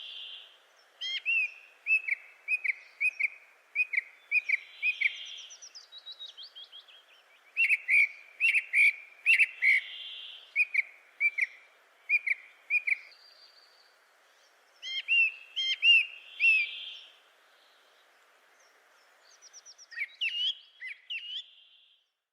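A songbird singing: phrases of quick, sharp chirped notes, each phrase followed by a short pause.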